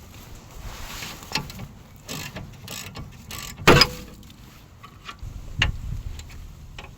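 Metal tools and car parts clinking and knocking during hand repair work, a series of scattered short knocks with one sharp clank just under four seconds in.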